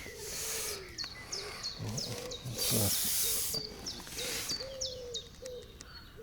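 Birds calling outdoors: a steady run of short, sharp high chirps about twice a second, together with shorter lower notes. Two bursts of rushing hiss pass over them, one at the start and one about halfway through.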